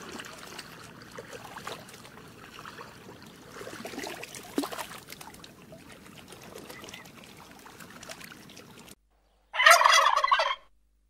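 A turkey tom gobbling once, loud and about a second long, near the end. Before it, faint splashing and lapping of water as turtles swim at the surface.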